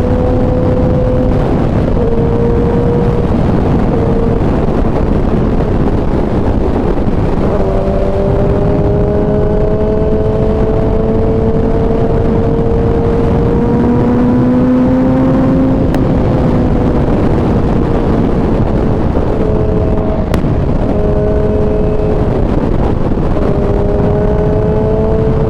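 Kawasaki ZX-10R's inline-four engine running under way, heard through heavy wind rush on the microphone. The engine note mostly holds steady with slow rises, and it steps in pitch several times.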